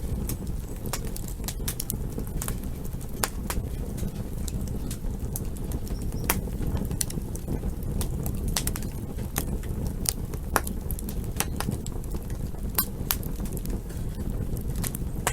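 Campfire crackling: irregular sharp pops and snaps of burning wood, a few louder than the rest, over a steady low rumble of the flames.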